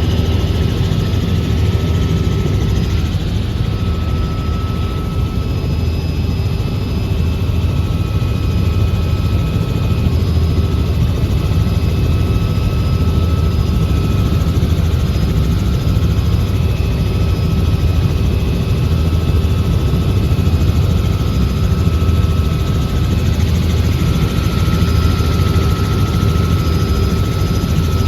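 Helicopter in flight: steady rotor and engine noise, a heavy low throb with a few steady whining tones over it.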